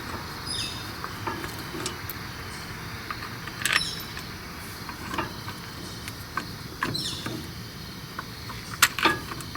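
Wrenches and metal parts clinking and knocking irregularly, some strikes with a short metallic ring, over a steady low hum, as fuel pump and filter housing fittings are bolted back on.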